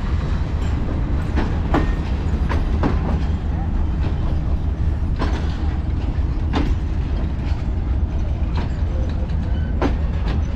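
Pakistan Railways passenger coaches rolling past on the track: a steady low rumble with irregular sharp clicks and knocks, about one a second, from the wheels crossing rail joints.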